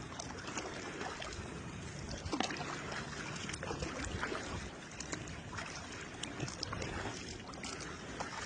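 Water lapping and splashing against the hull of a kayak under sail: a steady wash of moving water with many small irregular splashes.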